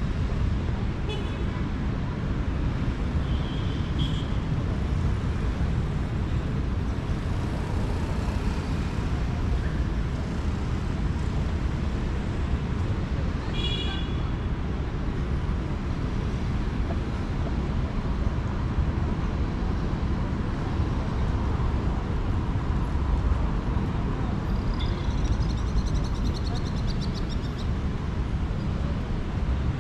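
Steady city street traffic noise with a continuous low rumble, broken by a few brief high-pitched sounds about a second in, around four seconds, around fourteen seconds, and a longer one near the end.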